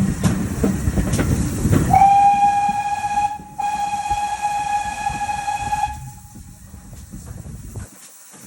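GWR 6400-class pannier tank locomotive 6430: a rumble with clattering knocks, then its steam whistle sounds a short blast followed by a longer one of one steady pitch, which dies away about six seconds in.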